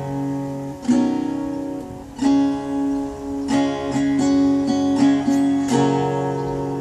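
Acoustic guitar strummed by hand, a run of chords struck every second or so, ending on a final chord that is left to ring and fade.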